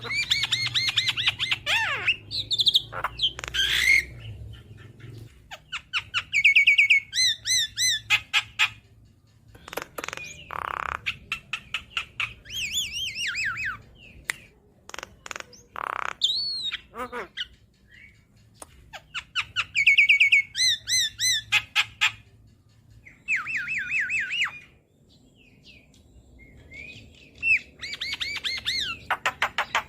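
Javan myna (jalak kebo) singing vigorously: bursts of rapid repeated notes and sweeping whistles, broken by a couple of harsh squawks, with short pauses between phrases.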